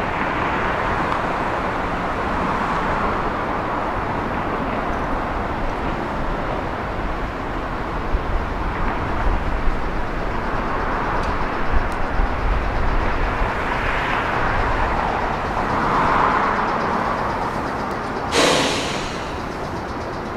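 Meitetsu electric train running along the track with a steady rumble, and a string of sharp wheel clacks in the middle. A short sharp hiss comes near the end.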